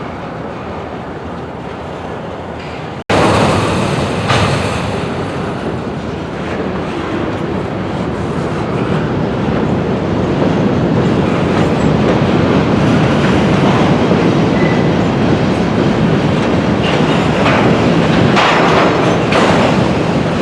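Freight cars rolling on the rails, a steady rumble of wheels on track with occasional clanks. It cuts out briefly about three seconds in and comes back louder.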